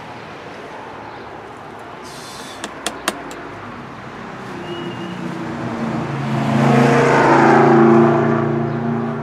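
A motor vehicle passes by, its engine hum swelling to a peak about seven to eight seconds in and then easing off. A short hiss and a few sharp clicks come around two to three seconds in.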